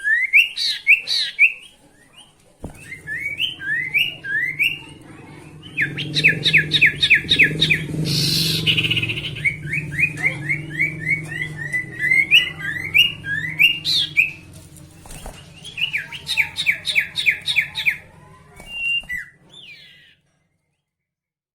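A sirtu songbird singing in fast, repeated series of quick rising chirps and short trills, with brief pauses between phrases. It is a lure song meant to provoke a rival bird into singing. A low steady hum runs underneath most of it.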